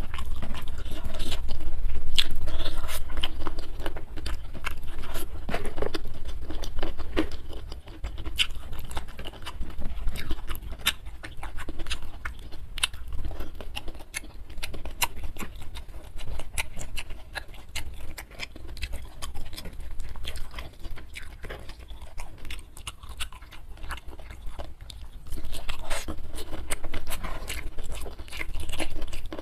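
Close-up chewing of a mouthful of rice and spicy chicken feet eaten by hand: wet lip smacks and many quick sharp mouth clicks with some crunching. It is busier and louder in the first few seconds and again near the end.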